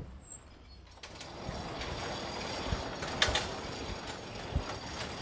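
Pickup truck on the move: steady engine and road noise with a few sharp knocks and rattles.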